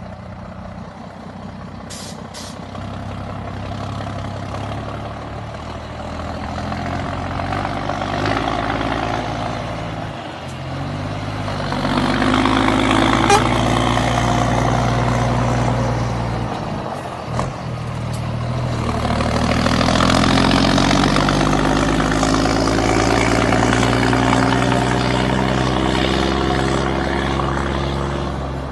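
Scania truck engine running through a straight-pipe exhaust, pulling hard through the gears. Its pitch climbs, drops back at two gear changes about ten and seventeen seconds in, then climbs again before easing off near the end.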